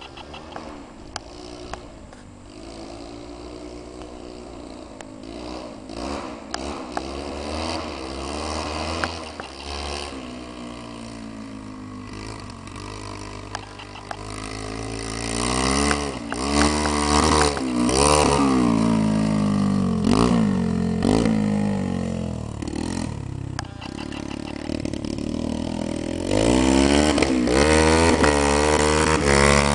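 Dirt bike engine revving up and down over and over. It grows louder about halfway through and again near the end.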